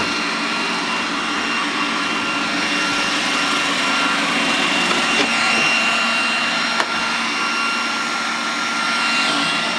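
iRobot Roomba robot vacuum running, a steady motor whine and brush hum, with one sharp click about seven seconds in.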